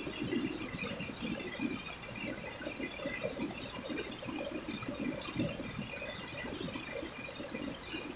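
Heavy rain falling steadily, a dense run of close drop impacts over an even hiss.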